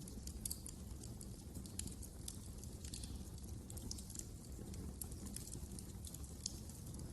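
Wood fire crackling in a fireplace: frequent, irregular sharp snaps and pops over a low steady rumble.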